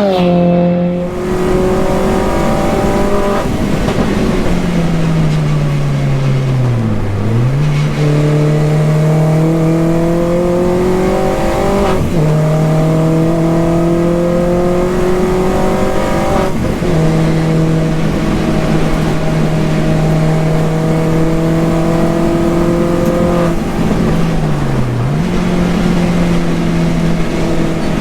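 Mini R55 Clubman race car's engine under hard driving on track, heard from inside the car. The revs climb and step with gear changes and drop sharply twice before rising again.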